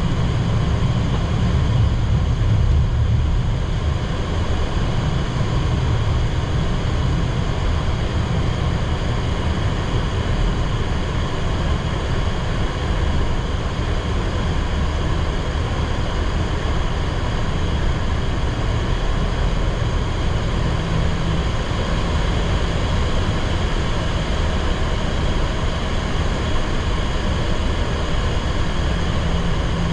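Steady low rumble and rush of air inside a Boeing 737-800 cockpit on the ground after landing, with the engines still running.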